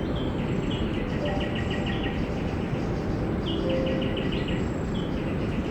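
A bird calling several times, each call a high note that breaks into a rapid run of short, stuttering notes, over a steady noisy background. A few short low whistled tones sound in between.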